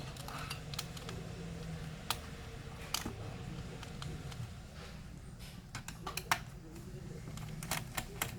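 Scattered sharp clicks and taps of small laptop parts, screws and a screwdriver being handled during disassembly, with a quick run of clicks in the second half.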